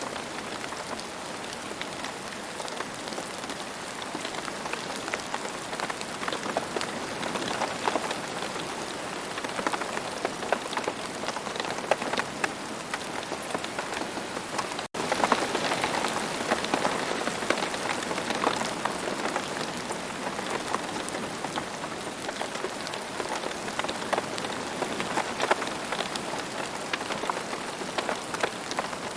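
Steady rain falling on the ground, a dense hiss full of individual drop hits. It cuts out for a split second about halfway through, then comes back slightly louder.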